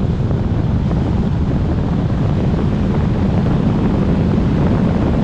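Wind buffeting the microphone over the steady running of a micro jet boat's single-cylinder two-stroke Kawasaki JS300 jetski engine, with water noise.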